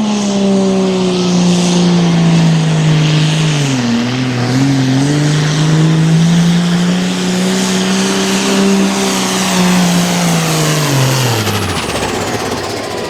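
Diesel engine of an altered farm pulling tractor running at full throttle under load as it drags the weight sled. The engine pitch sags about four seconds in as it bogs, climbs back, then drops away near the end as the throttle is cut, leaving a high whine winding down.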